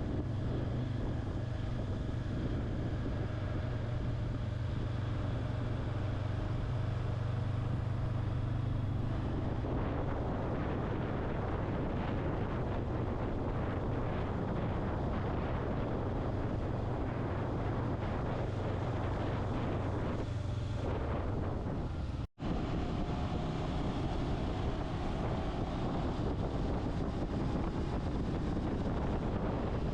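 Motorcycle riding along: a steady engine hum under rushing wind on the microphone. About a third of the way in the engine tone gives way to mostly wind noise, and all sound cuts out for an instant about three quarters of the way in.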